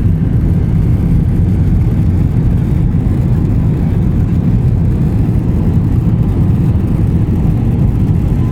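Airplane noise: a loud, steady low rumble that holds even throughout.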